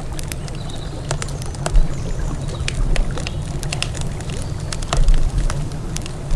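Wood campfire crackling with irregular sharp pops, a few louder snaps among them, over a steady low rumble.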